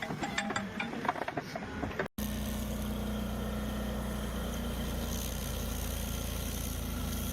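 A clatter of sharp knocks and cracks for about two seconds, then, after an abrupt cut, a stump grinder's engine running steadily at a constant pitch.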